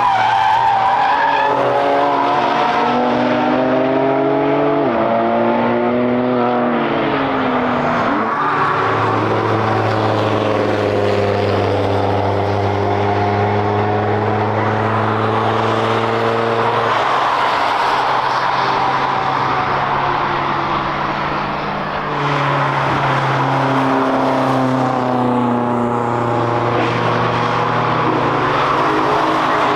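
Cars driving past on a race circuit. The engine notes rise and fall with throttle and gear changes, and one steady engine drone is held for several seconds in the middle, over a haze of tyre and road noise.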